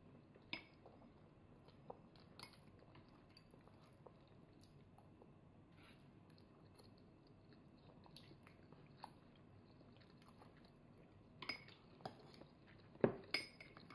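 A toddler quietly chewing a mouthful of rice. A spoon gives scattered light clicks against the rice bowl, with the loudest few near the end as it scoops up more rice.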